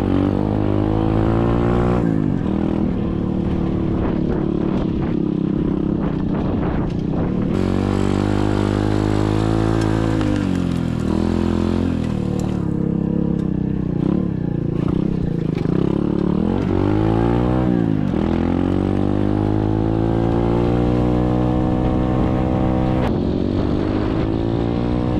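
SSR 125cc dirt bike's single-cylinder four-stroke engine running under way, its pitch climbing as it accelerates and dropping off several times as the throttle closes and opens again.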